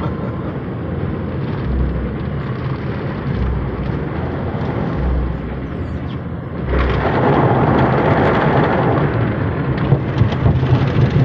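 An automatic car wash heard from inside the car: a steady rumble and rush of water against the body, with dull thuds recurring every second or two. The rush swells louder about seven seconds in.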